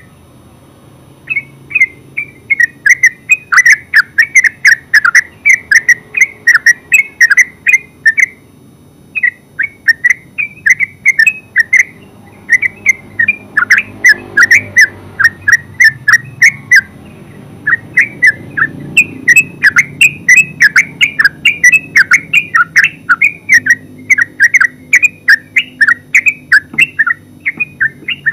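Yellow-vented bulbul singing a long, non-stop run of short, bubbly, fluty notes, several a second, pausing briefly about a second in, around a third of the way through and again past the middle.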